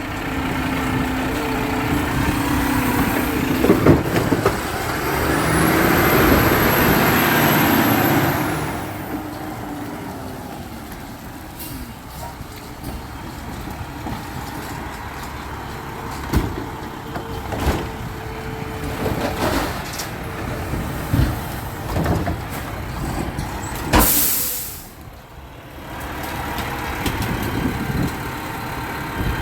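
Garbage truck running, with scattered clanks and knocks. It gets louder for a few seconds with a hiss and a high whine, and a sharp burst of air-brake hiss comes near the end.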